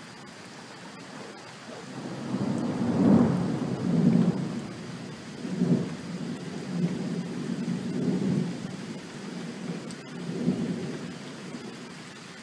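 A long roll of thunder that starts about two seconds in and rumbles in several swells before fading near the end, over steady rain that is getting heavier.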